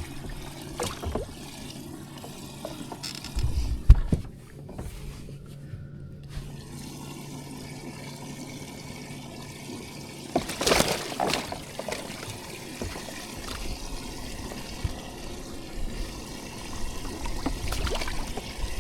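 Water trickling and splashing over a steady low hum that stops about ten seconds in, with scattered clicks and one louder, noisier splash-like burst about eleven seconds in.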